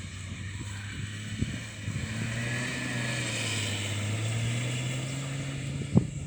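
Engine of a powerful rear-wheel-drive car running under load as it is driven hard across a grass field. The engine note climbs a little and holds, and there is a sharp thump near the end.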